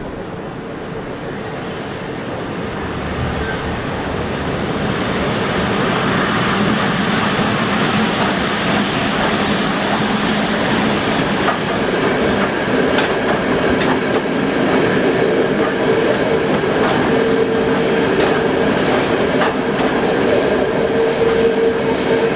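Freight train hauled by a 2ES10 'Granit' electric locomotive running past, its wagon wheels knocking and clattering on the rails. It grows louder over the first six seconds, then holds steady, with a steady whine joining from about halfway.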